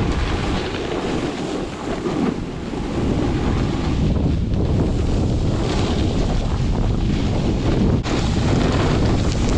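Wind buffeting the microphone, a steady loud rumbling rush.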